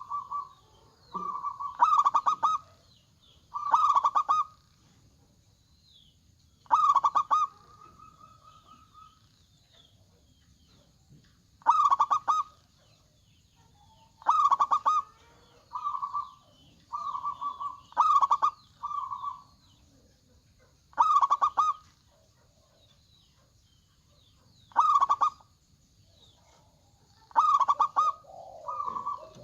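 Zebra dove (perkutut) cooing song: short phrases of rapid, pulsed coos repeated every two to four seconds, some ending in a held coo. Faint chirps of small birds run behind.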